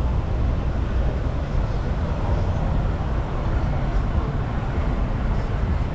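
Wind buffeting the microphone while cycling, a steady low rumbling noise, with road and traffic noise beneath it.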